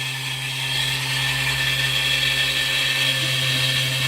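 Lathe running at a steady speed with a steady hum and high whine, as a file takes material off the spinning brass rod to bring it down to size.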